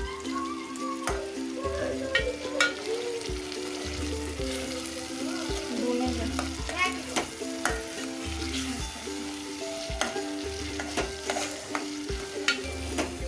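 Chopped tomato and onion masala sizzling in hot oil in a metal pot while a spatula stirs it, knocking and scraping against the pot's sides with frequent sharp clicks: the masala being fried (bhuna) for a karahi.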